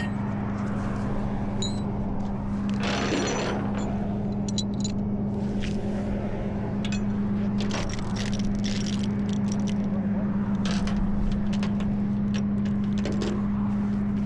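Tow truck's engine idling steadily, with scattered metallic clicks, scrapes and jangles from gear being handled around it.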